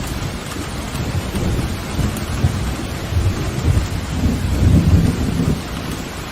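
Steady rain with a rolling rumble of thunder, the rumble swelling about four to five seconds in and easing off near the end.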